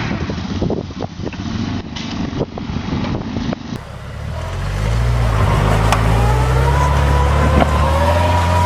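Off-road truck engines working in mud. First an engine running with scattered sharp knocks; then, after a cut about four seconds in, a louder truck engine pulling hard with a deep steady drone and a wavering whine above it.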